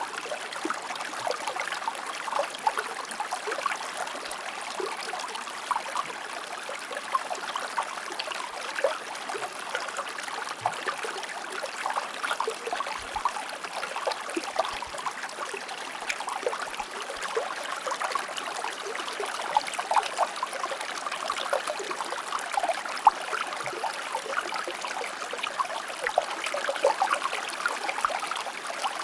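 Shallow stream flowing steadily over rocks, a continuous rush of water dense with small splashes and burbles.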